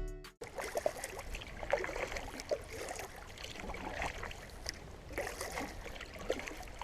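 Paddle strokes of a cedar-strip solo canoe: water trickling and dripping with small, irregular splashes as the paddle dips and lifts.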